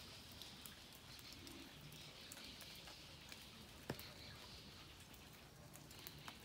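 Faint light rain: scattered raindrops pattering over a soft steady hiss, with one sharper drop or tap a little before four seconds in.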